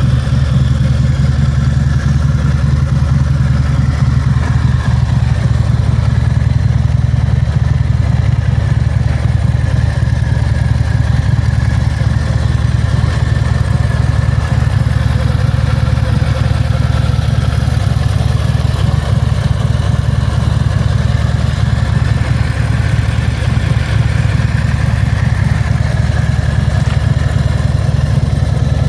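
Harley-Davidson Fat Bob 114's Milwaukee-Eight 114 V-twin idling steadily, with no revving.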